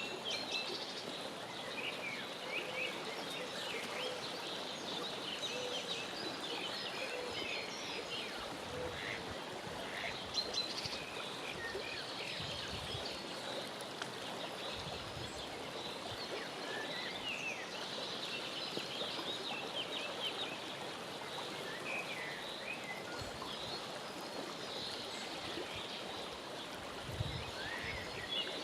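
Steady rush of flowing water with many short, high bird chirps scattered over it.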